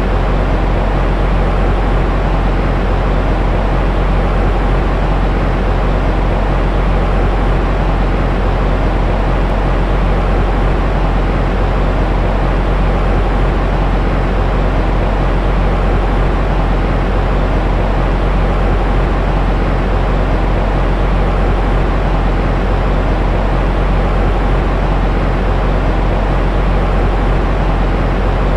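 Steady white noise for soothing a baby to sleep: a deep, even hiss with most of its energy in the low end, unchanging throughout.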